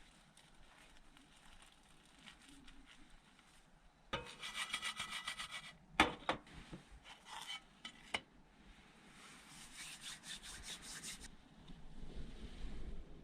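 Knife scraping across crisp toasted bread in two rasping spells of about two seconds each, with a sharp knock between them.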